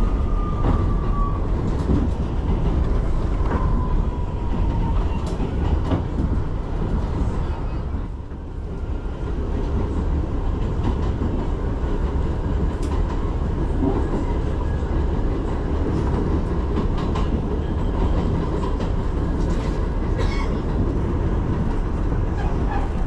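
New York City 6 train subway car running: a steady rumble of wheels on the rails with scattered clicks over the rail joints. A faint falling whine sounds twice in the first five seconds, and the rumble briefly drops about eight seconds in.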